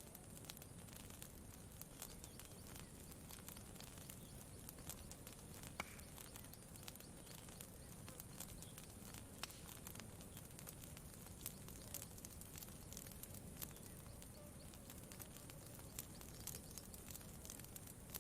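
Faint campfire crackling: scattered small pops and snaps, one somewhat sharper about six seconds in, over a low, steady background.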